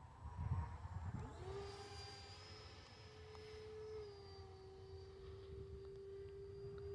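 Electric ducted fan of an E-flite Viper 70mm RC jet whining faintly in flight: a steady whistling tone that rises about a second in, edges higher, then drops back a little around four seconds in and holds.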